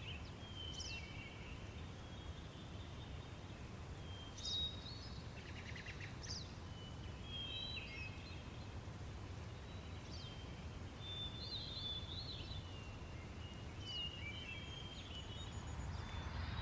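Several birds chirping and singing: short whistles and trills come every second or two over a faint, steady low rumble of outdoor background noise.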